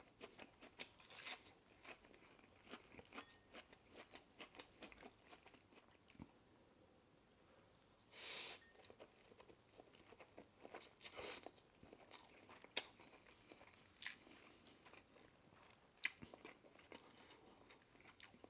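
Close-miked eating: chewing and crunchy bites with wet mouth clicks and smacks, a longer noisy slurp-like swell about eight seconds in, and a few sharp crunches later on.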